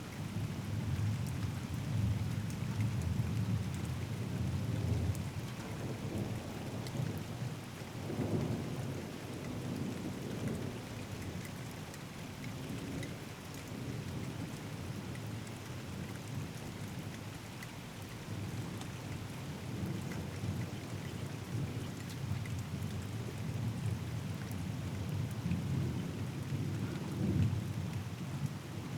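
Thunderstorm: steady rain falling, with low rolling thunder rumbling underneath. The thunder swells in the first few seconds, again about eight seconds in, and near the end.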